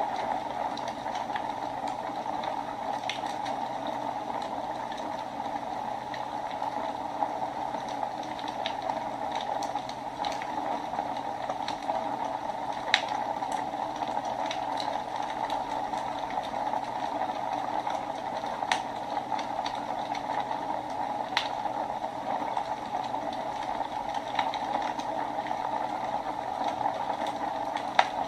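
Wood fire burning in a fireplace: a steady hiss with sharp crackles and pops every few seconds, the loudest about halfway through and again at the end.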